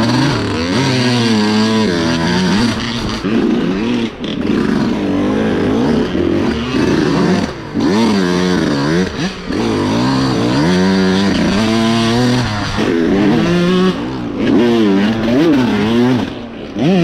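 Dirt bike engine revving up and down over and over, its pitch climbing and dropping every second or two as the throttle is opened and shut, with a few brief dips where it backs right off.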